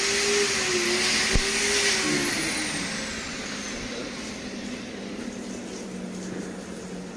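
A machine running with a loud hiss and a wavering whine, then slowing down: the whine drops in pitch and the sound fades over the next few seconds, with a single sharp click about a second and a half in.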